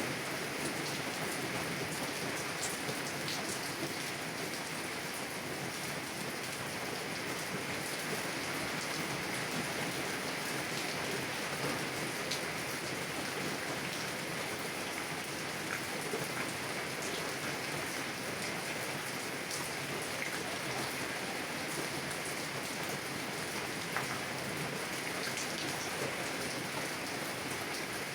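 Heavy rain drumming steadily on a car's roof and windows, heard from inside the car, with scattered sharper drop ticks.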